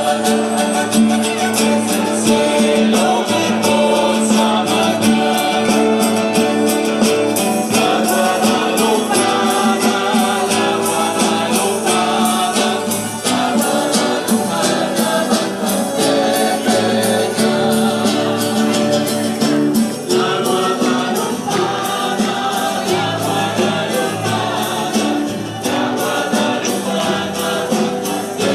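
A choir singing a religious hymn over instrumental accompaniment, with a quick, steady percussion beat throughout.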